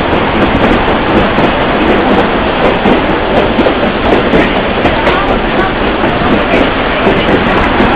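Excursion train rolling along the track, heard from aboard: a steady, loud rumble of wheels on rail with clickety-clack and wind, and faint voices.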